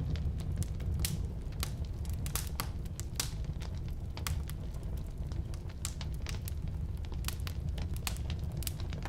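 Firewood burning in a fireplace: irregular sharp crackles and pops from the logs over a steady low rumble of the flames.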